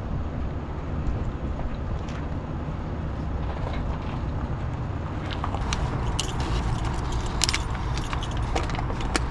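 Steady low rumble of a vehicle running, with metallic jingling and clicking, like keys or loose hardware, picking up from about halfway through.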